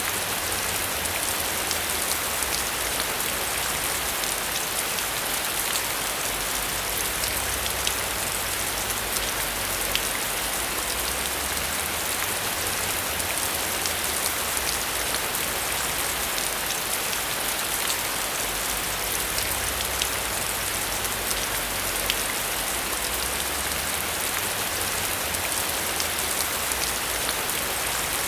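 Steady heavy rain falling on a surface, a constant hiss dotted with the ticks of individual drops.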